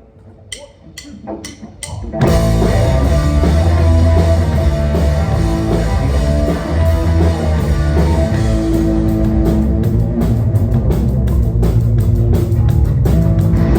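Live punk rock band: four quick clicks, then the full band comes in loud about two seconds in, with electric guitars, bass and drum kit.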